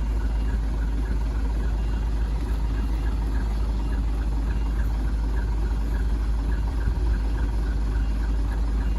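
Heavy diesel machinery running steadily with a deep low rumble, as the excavator and the stuck dump truck work at the recovery.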